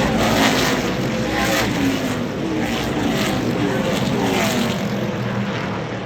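NASCAR Craftsman Truck Series race trucks' V8 engines running at racing speed as several trucks go by, their engine notes sliding down in pitch as each one passes.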